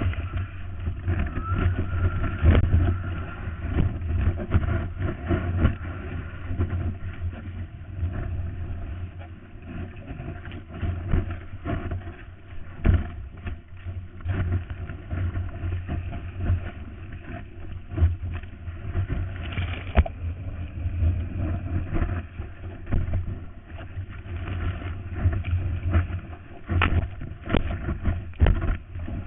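Muffled water and wind noise through a GoPro camera's waterproof housing while surfing, with frequent knocks and thumps of water against the case.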